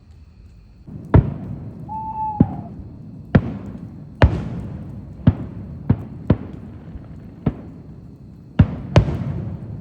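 Fireworks going off: about ten sharp bangs at uneven intervals, each with an echoing tail, and a brief falling whistle about two seconds in.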